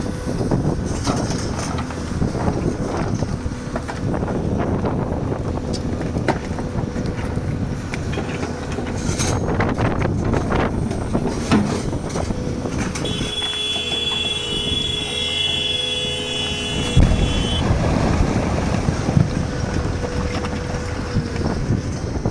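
Heavy excavator working marble: diesel engine rumble with knocks and scrapes of stone. A steady high squeal sounds for about five seconds past the middle.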